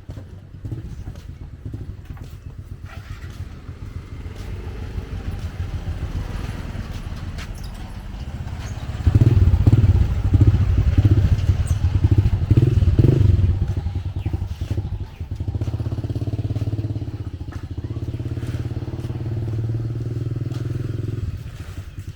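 Motorbike engines in street traffic. Engine sound builds up, is loudest and pulsing for several seconds from about nine seconds in, then settles into a steady engine hum.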